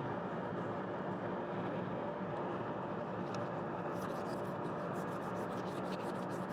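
Oneway wood lathe running steadily with a workpiece spinning, a steady machine drone with faint hum. In the second half a rapid run of faint clicks sits over it, from hand work such as sandpaper or a rag against the turning wood.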